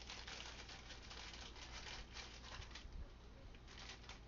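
Faint dry rustling and crinkling with a light patter of small ticks, as dry bay leaves are handled and dropped into jars.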